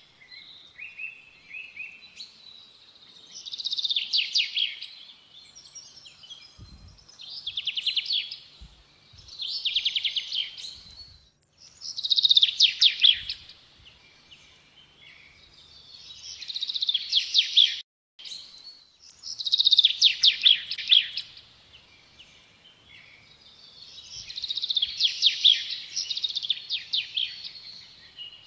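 Songbird singing: rapid trilled phrases about a second long that fall in pitch, repeated every two to four seconds.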